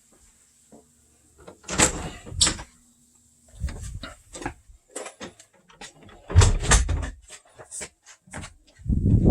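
Irregular knocks, bumps and rattles in several loud clusters, like a door or panel being handled.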